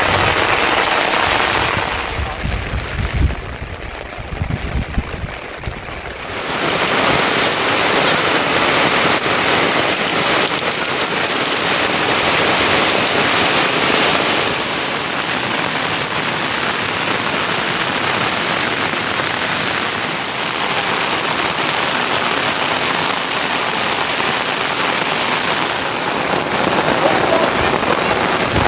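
Heavy rain falling in a steady dense hiss. For a few seconds near the start it turns quieter, with low thumps, then the full downpour comes back.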